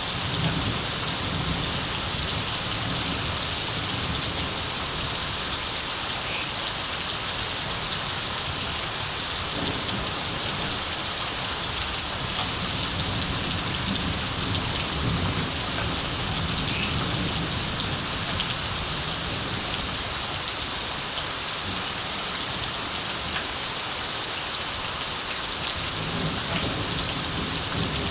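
Steady rain falling, with low rumbles of distant thunder coming and going several times.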